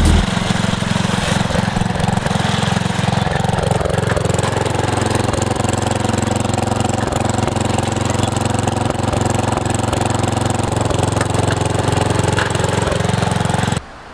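Lawn tractor's small engine running steadily, then cutting off abruptly near the end.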